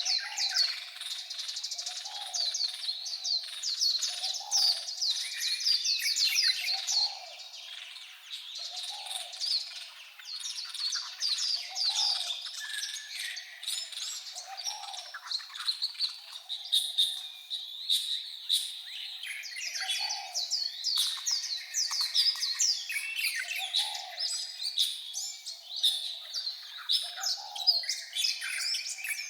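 White-eyes singing: a dense, continuous twittering of fast, high, falling notes. Underneath, a low soft note repeats about every one and a half seconds.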